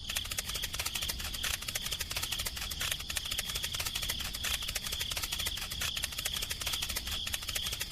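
A fast, steady rattle of many clicks a second over a constant high whine, like a small motor driving a toy mechanism.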